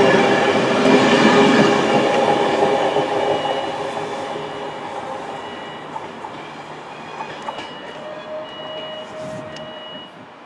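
LNER InterCity 225 electric train (Class 91 locomotive with Mk4 coaches) passing close at speed, the wheels running loud over the rails, then fading as the train draws away. Short high beeps repeat from about a third of the way in.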